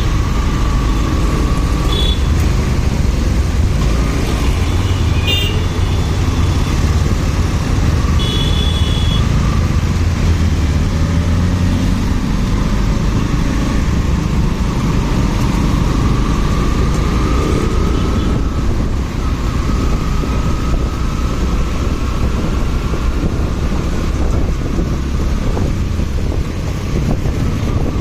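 Motorcycle riding in city traffic: steady engine and road noise, with three short high horn toots in the first nine seconds.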